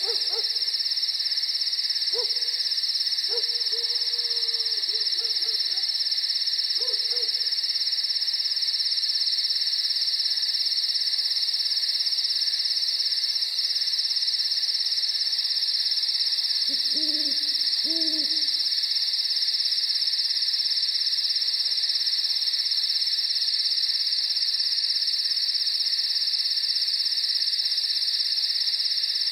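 Night ambience: a dense, steady insect chorus, with an owl hooting several times in the first seven seconds and twice more a little past halfway.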